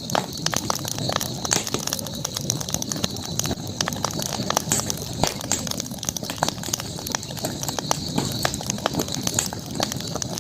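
Campfire crackling: burning wood giving frequent, irregular sharp pops and snaps over a steady high-pitched hiss.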